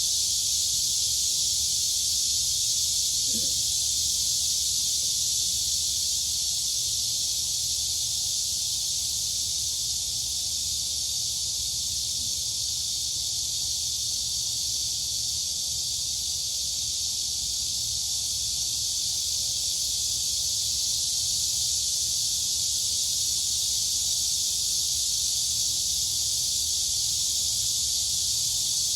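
Dense chorus of crickets and cicadas: a high, steady, unbroken shrilling that does not let up.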